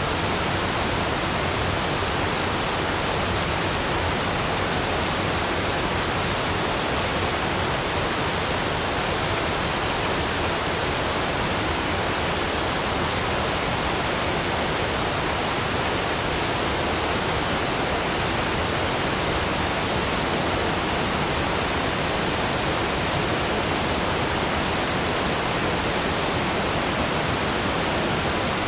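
Steady, even rush of cascading waterfalls, unchanging in level and very like a smooth noise track.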